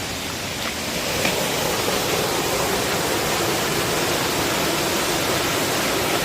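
Steady rushing roar of a waterfall, a constant wash of falling water that grows a little louder about a second in.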